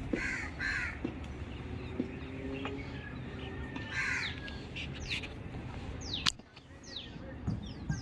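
Crows cawing: two harsh caws right at the start and another about halfway. In the second half, small birds give quick, high calls that fall in pitch, over a low steady background rumble.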